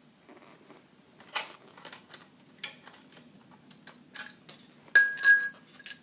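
Small metal parts clinking and tapping as a pit bike's chain roller, its spring and its hardware are worked off by hand. The clicks come sparsely at first and more often in the last couple of seconds, and about five seconds in one strike rings briefly.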